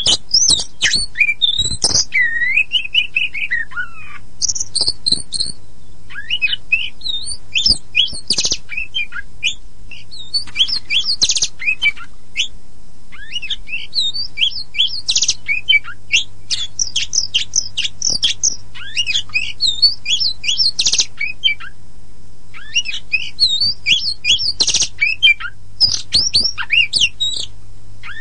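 Oriental magpie-robin (kacer poci) singing a fast, varied song of chirps and whistles in bursts with brief pauses, including a long falling whistle about two seconds in. A faint steady hum runs underneath.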